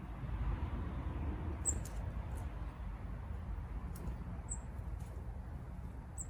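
Small bird giving short, very high-pitched chips, three times a couple of seconds apart, with a few faint ticks between them, over a steady low background rumble.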